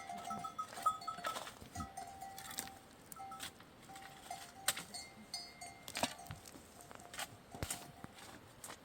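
Livestock bells clanking irregularly as the flock moves, short ringing notes mixed with sharp metallic clinks.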